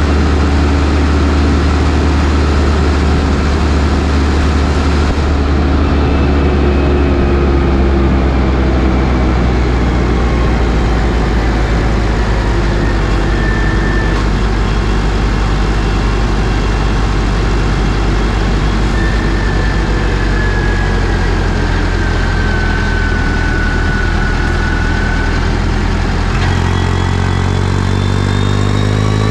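New Holland T6040 tractor's diesel engine running at a steady speed, with its pitch starting to rise in the last few seconds as it revs up.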